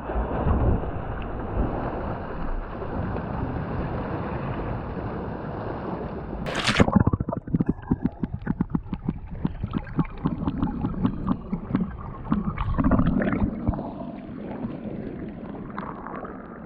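Water sloshing and gurgling around the boat, with one sharp splash about seven seconds in, followed by crackling, bubbling water sounds.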